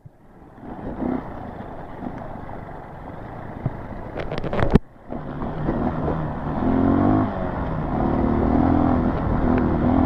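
Honda CRF230 dirt bike's single-cylinder four-stroke engine running as it rides along a rough trail, with a few clicks and knocks in the first half; from about five seconds in the engine note is steady and grows louder.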